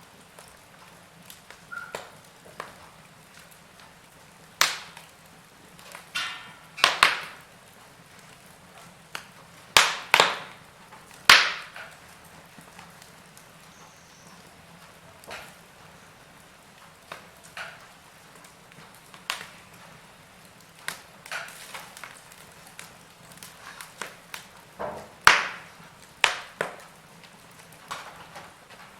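Wood fire in a fireplace crackling: sharp, irregular pops and snaps, a few of them much louder, over a faint steady hiss.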